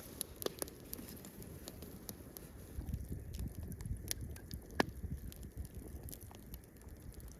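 Campfire crackling faintly, with irregular sharp pops and ticks over a low rumble; the sharpest pop comes a little after the middle.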